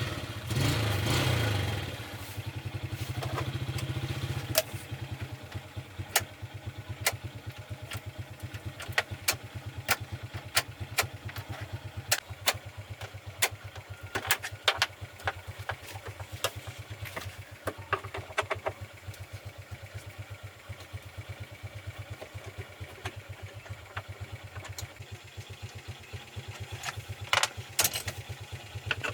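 A 5-ton Toyota truck's engine starts with a loud burst, runs high for a few seconds, then settles into a steady idle with an even, fast beat. Sharp clicks sound now and then over it.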